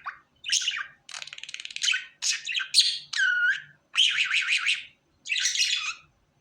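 Pet budgerigar chattering and warbling in quick bursts. About a second in there is a rapid buzzy stretch, and around three seconds in a run of short squeaky repeated notes. It stops about six seconds in.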